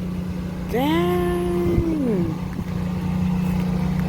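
A steady low droning hum runs throughout. Over it, a woman gives a drawn-out exclamation, 'dang', about a second in.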